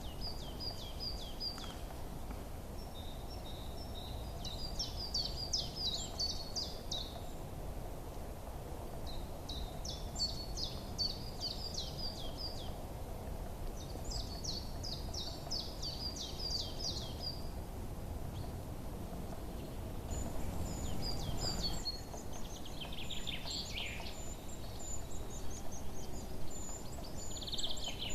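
Songbirds chirping in short, rapid trilled phrases that repeat every few seconds over a steady low background rumble. From about two-thirds of the way in, other birds join with higher, quicker calls and a few falling notes.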